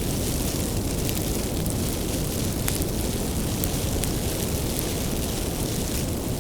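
Wood fire burning, a steady low rumble with a few faint, sparse crackles of the firewood.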